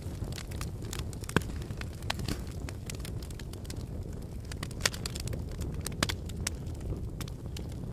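Wood fire burning in a fireplace: a steady low rumble of flames with irregular crackles and sharp pops, the loudest about a second and a half in and again near the five-second mark.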